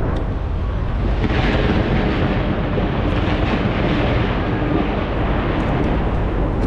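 Fireworks fired from a skyscraper bursting without a break: a dense, continuous rumble of many overlapping booms that swells about a second in.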